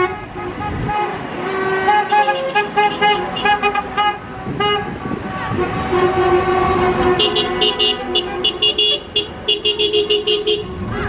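Vehicle horns tooting, many short blasts at several pitches, with a quick run of rapid toots in the second half.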